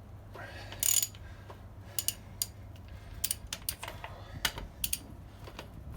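Scattered sharp metallic clicks and short taps from a socket and bar being worked on rusted exhaust manifold bolts. The longest rattle comes about a second in, with single clicks after it.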